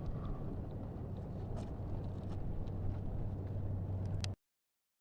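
Steady low rumbling background noise with a few faint clicks, cutting off abruptly about four seconds in.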